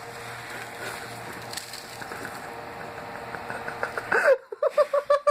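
Dry catnip rustling and crackling as it is handled and cleared out of video game boxes, over a faint steady hum. Near the end it cuts off abruptly and laughter begins.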